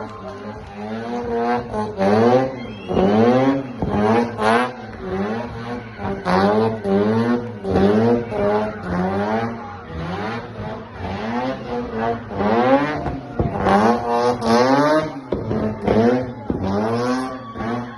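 Mazda 13B rotary engine in a race car, revved hard again and again while the car spins donuts; the engine note sweeps up and falls back about once a second.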